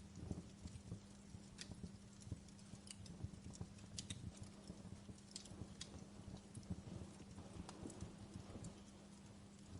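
Wood fire crackling in a fireplace: irregular sharp snaps and pops, a few at a time, over a low steady hum.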